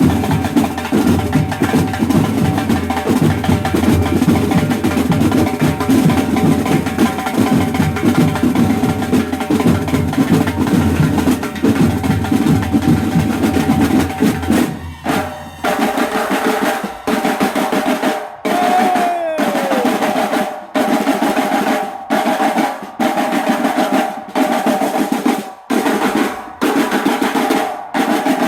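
Mexican banda de guerra drum section playing: snare drums roll densely over bass drums for about the first half. Then the bass drops out and the snares play a clipped pattern in short phrases with regular breaks, over a steady held tone.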